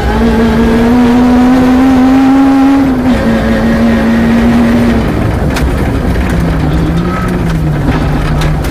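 Peugeot 306 rally car's engine heard from inside the cabin, running hard: its pitch climbs for about three seconds, steps down, holds, then falls lower and wavers as the throttle comes off for a bend near the end. A few sharp clicks of gravel hitting the car come through the engine noise.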